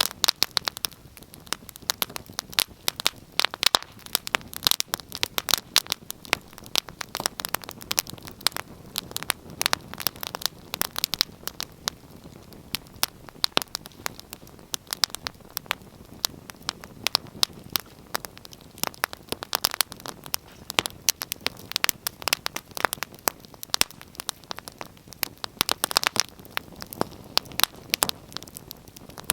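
Wood fire in a fireplace crackling, with many sharp, irregular pops and snaps over a low steady hiss.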